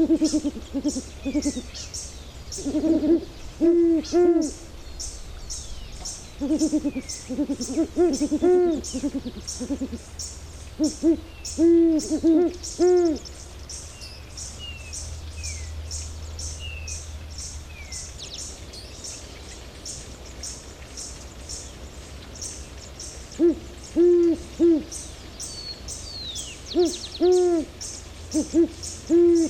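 Great horned owl hooting: series of deep, low hoots in bouts, with a pause of about ten seconds in the middle. A high rhythmic pulsing of about two to three beats a second runs steadily in the background.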